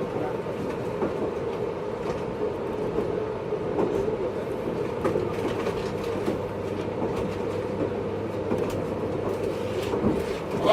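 Running noise inside a JR East 583 series electric train car (MoHaNe 582) at speed: a steady running hum with the wheels clicking over rail joints. A louder, sharper knock comes right at the end.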